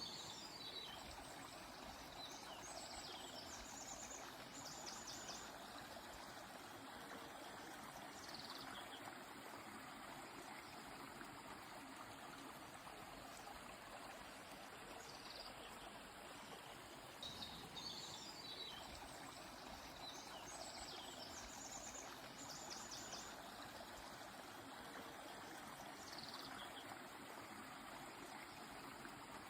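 Steady rushing of a flowing river or stream, with small birds calling faintly over it in short chirps and quick high trills, in two clusters: one at the start and one a little past the middle.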